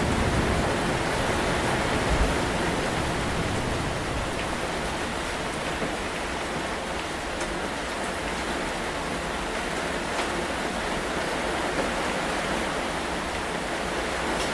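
Steady heavy rain falling in a constant hiss. In the first few seconds a low rumble of distant thunder sits beneath it and fades away.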